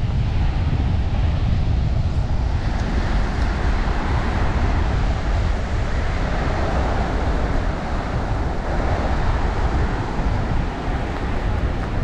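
Strong wind buffeting the microphone with a heavy rumble, over the wash of breaking sea waves that swells and fades again in the middle.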